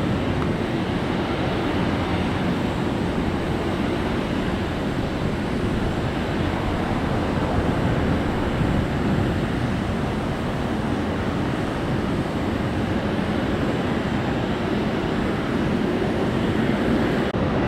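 Steady jet airliner engine noise: an even low rumble with no clear tone and no rise or fall.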